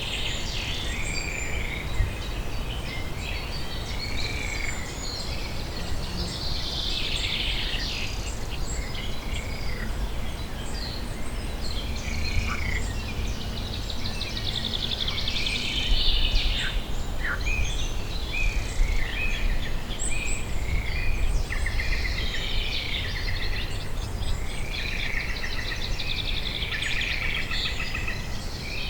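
Several small birds singing and calling together, with many short arching whistled notes and quick trills, over a steady low rumble of outdoor background noise.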